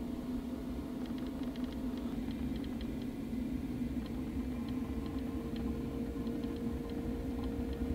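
Small countertop air fryer running with a steady fan hum, a higher steady tone joining about halfway through, and faint scattered ticks over it.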